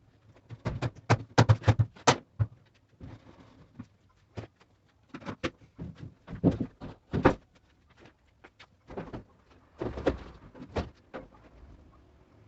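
Irregular sharp knocks and clatters of hard parts being handled while working on a washing machine. They come in clusters, loudest between one and two seconds in and again around six to seven seconds in.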